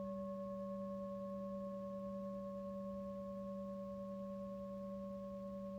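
Tibetan singing bowl ringing in a steady, sustained hum: a low tone with several higher overtones held evenly.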